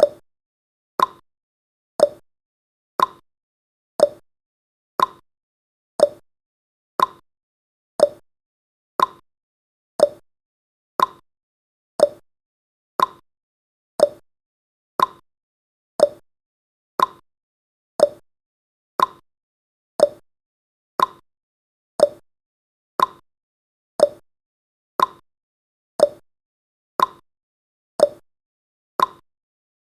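Clock-tick sound effect of a countdown timer, one short tick every second, steady and even.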